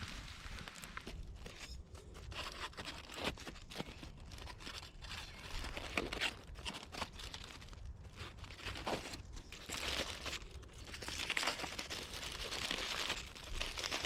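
Irregular crinkling and crunching handling noise: short cracks and rustles, thicker about ten seconds in and again near the end.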